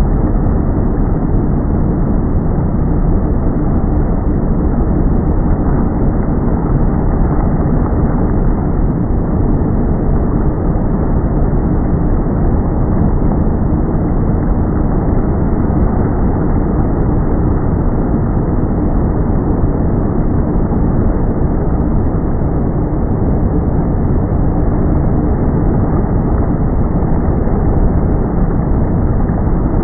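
A steady, loud low rumble with no distinct events, dull and muffled-sounding. A faint steady hum runs through it.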